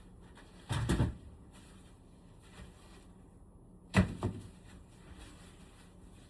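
A short rustling clatter about a second in, then a sharp knock followed by a lighter one about four seconds in: parts of a room air conditioner being handled.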